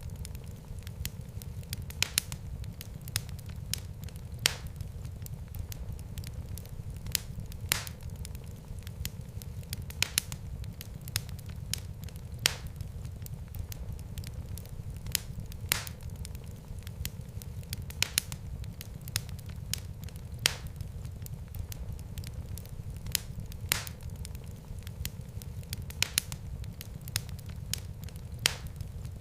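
Fireplace fire crackling: sharp, irregular pops every second or so over a steady low rumble of the flames.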